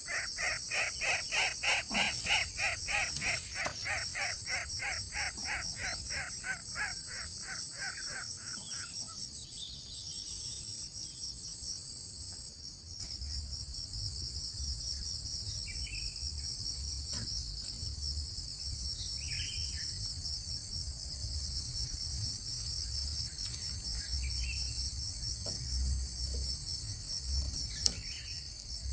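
A bird's harsh calls repeated rapidly, about four a second, stopping about eight seconds in, over a steady high-pitched insect drone. A few faint short calls follow later.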